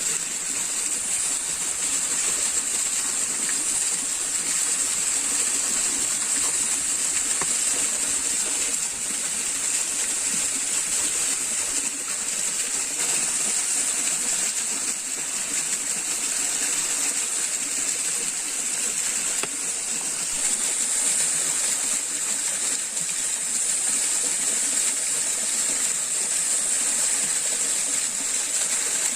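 Steady rushing water of a stream, with a continuous high-pitched hiss above it.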